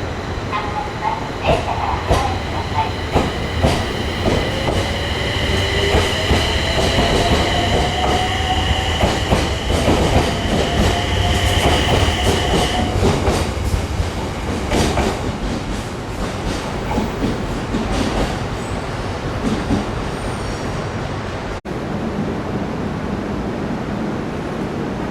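A train running through a station, wheels squealing in a high steady tone for the first dozen seconds while they clack over rail joints, with a motor whine rising in pitch through the middle.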